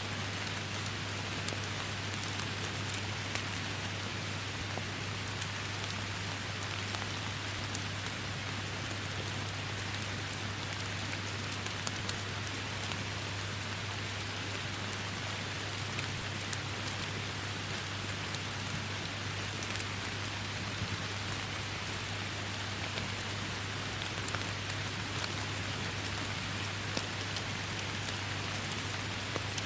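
Steady rain falling in a forest, an even hiss with many individual drops ticking close by.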